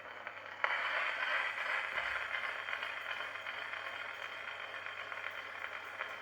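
Surface hiss and crackle of an Edison 4-minute Amberol cylinder played on an Edison Triumph Model F phonograph, starting suddenly about half a second in as the reproducer's stylus meets the record and running on steadily through the blank lead-in groove before the music.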